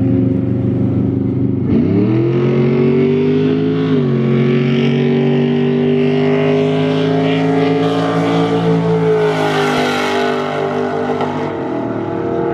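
Car engines held at steady revs, then launching hard about two seconds in: the engine note leaps up, drops with a gear change about two seconds later, and keeps climbing as the cars accelerate away. It fades near the end.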